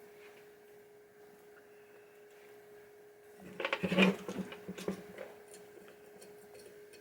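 A quick cluster of small clicks and knocks about halfway through, from screws and a screwdriver being worked into the coil stop of a pinball drop target assembly, over a steady faint hum.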